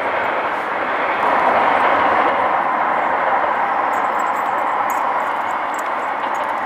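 Train running past on the railway line: a steady rushing noise that swells about a second in and then eases off slightly.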